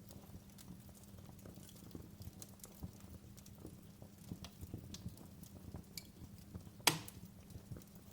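Wood fire in a fireplace crackling: a steady scatter of small irregular snaps over a low rumble, with one loud pop about seven seconds in.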